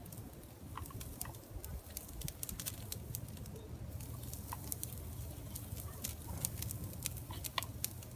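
Irregular small pops and crackles from a charcoal grill with chicken and asparagus cooking over the fire, over a low steady rumble.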